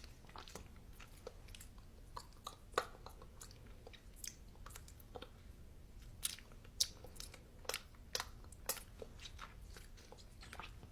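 A person chewing crunchy food close to the microphone, with irregular sharp crunches.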